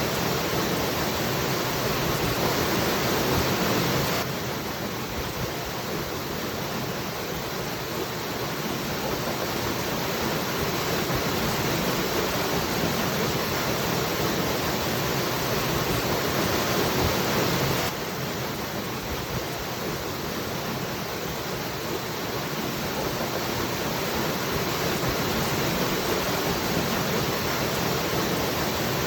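Steady, even rush of a waterfall. The level drops suddenly about four seconds in and again about eighteen seconds in, each time slowly building back up.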